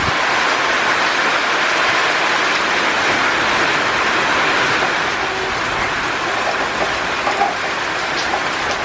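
Heavy monsoon rain falling steadily: a dense, even hiss.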